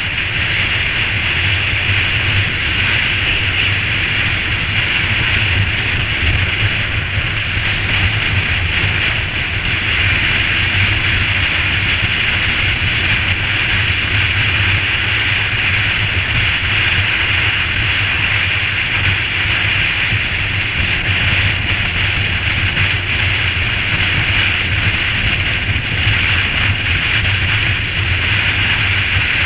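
Steady running noise of a vehicle on the move, a low drone with a hiss over it that holds even throughout.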